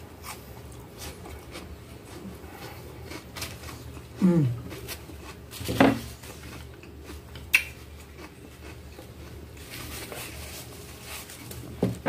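A person chewing a forkful of raw onion and tomato salad, with small mouth noises, a short falling hum about four seconds in and another brief hum near six seconds. A single light click of a fork on the plate comes a little later.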